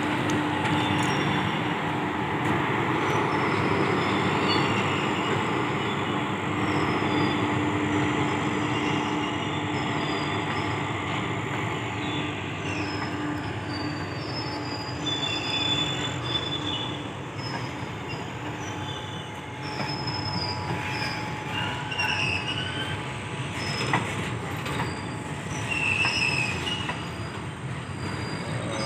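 Freight train passing close: WAG-7 electric locomotives, then loaded covered goods wagons rolling by with a continuous rumble of steel wheels on rail. A steady hum carries through the first half. In the second half the wheels give high-pitched squeals on and off, with one sharp knock.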